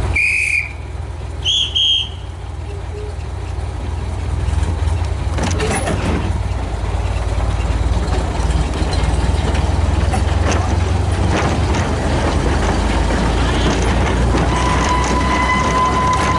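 Two short whistle toots from a live-steam garden-railway locomotive, the second higher-pitched than the first, over a steady low rumble. A steady high tone starts near the end.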